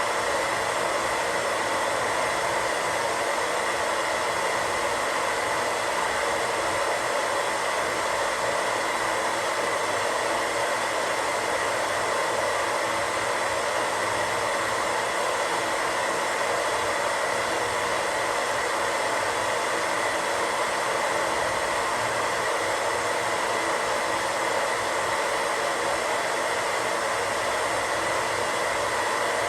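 Radio static: a steady, unbroken hiss, the sound of a radio tuned between stations.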